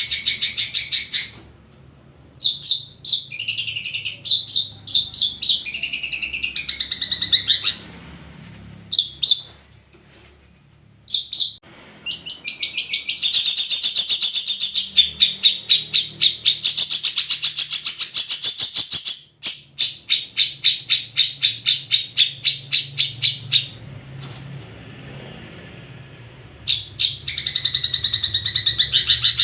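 Long-tailed shrike (cendet) singing loudly in long phrases of fast, rapidly repeated high notes and varied chattering, broken by a few short pauses.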